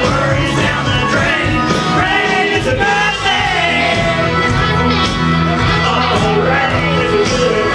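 Live country band playing loudly: steady drums and bass with a melody line bending in pitch above them.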